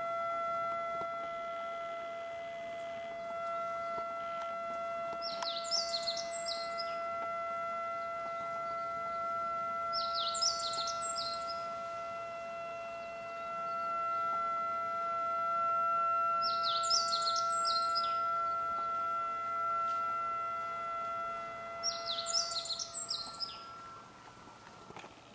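A songbird repeats a short, fast phrase of descending notes about every five seconds, over a steady tone that fades away near the end.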